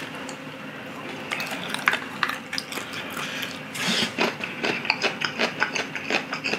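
Close-miked chewing of a mouthful of sauced charcoal-grilled chicken: wet, clicking mouth sounds, settling into a regular rhythm of about three chews a second from about four seconds in.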